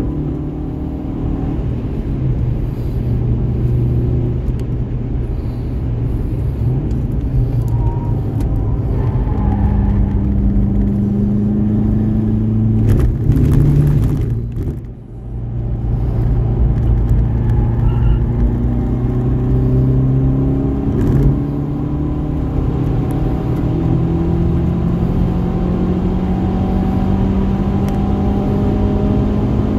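Subaru Impreza WRX STi's turbocharged flat-four engine under hard acceleration on a race track, its pitch climbing slowly through long pulls. The engine note drops out briefly about halfway through, then picks up and climbs again.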